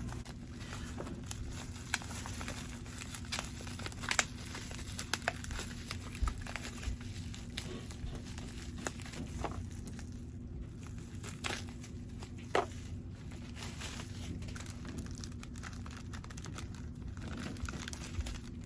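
Packaging crinkling and rustling as items are unwrapped and handled, with scattered small clicks and taps. A steady low hum runs underneath.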